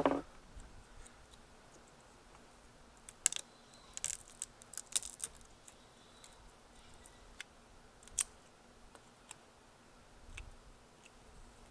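Scattered small, sharp clicks of hand-tool work on an electronic circuit board, bunched together a few seconds in, with one more distinct click about eight seconds in and a few faint ones after.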